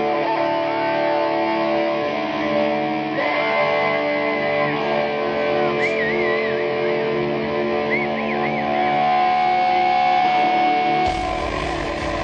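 Rock band's electric guitar playing held notes with bends and vibrato. About a second before the end the sound changes abruptly and a low rumble comes in.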